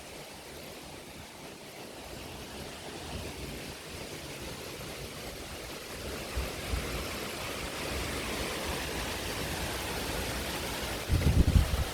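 Heavy rain pouring down as a steady hiss that slowly grows louder. Near the end comes a short, loud burst of low rumble, like a gust buffeting the microphone.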